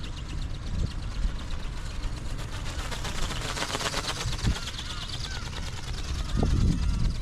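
Strong wind buffeting the microphone, while the ornithopter's small brushless motor and gear drive buzz past close by about halfway through, swelling and fading. Short gull calls come in over the second half.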